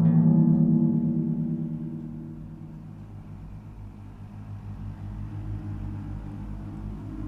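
A deep, ringing gong-like drone with a slow throbbing pulse. It is loud at first, dies away over a few seconds, then swells again.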